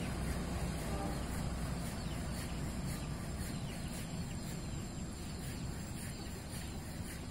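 Low rumble of a departing passenger train slowly fading into the distance, with birds chirping over it.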